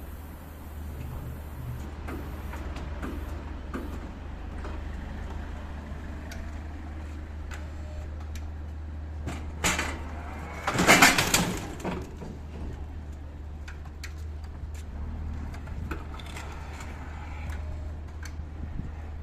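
Goods being unloaded from a delivery lorry: a steady low hum under scattered knocks, with one loud clatter lasting about a second about eleven seconds in.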